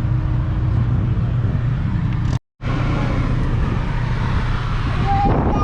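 A car engine running close by: a steady low drone. It drops out completely for a moment about two seconds in, at an edit.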